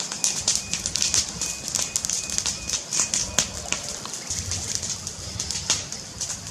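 White-rumped shama (murai batu) singing a fast, irregular run of sharp high chirps and clicks.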